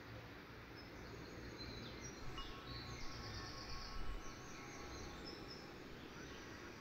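Faint outdoor ambience with a low rumble, and birds chirping and trilling high overhead through most of it.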